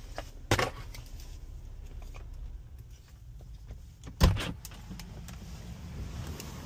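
Low, steady rumble of a Jeep Wrangler idling, heard from inside the cabin. There is a sharp click about half a second in and a single loud thump about four seconds in.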